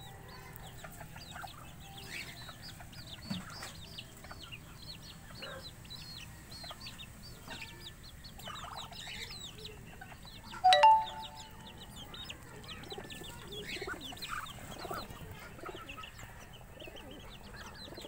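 Backyard birds calling: a steady scatter of short, high chirps, with one louder call about eleven seconds in.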